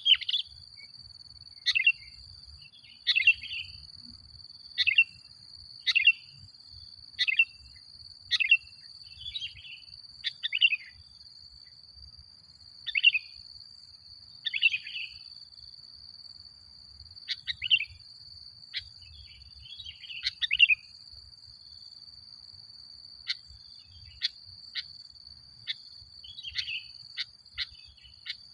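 Male sooty-headed bulbul (kutilang) calling in short, sharp chirping phrases, one about every second or so with short gaps, over a steady high-pitched tone.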